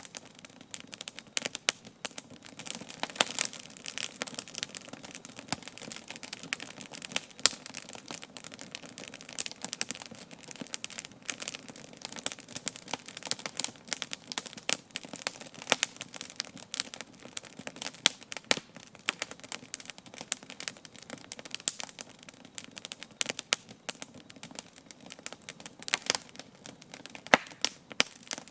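Wood campfire burning with constant irregular crackling and sharp pops over a low steady hiss.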